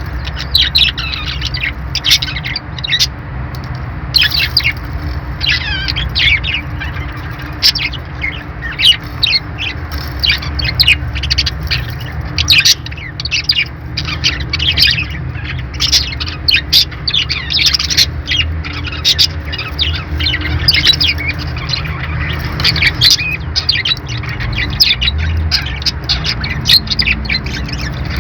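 A group of small pet parrots chirping and squawking without pause: many short, sharp calls overlapping in quick succession, over a steady low hum.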